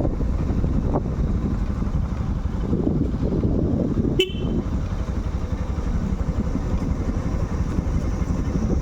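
Motorcycle riding with a steady low engine and wind rumble on the microphone, and one short horn toot about four seconds in.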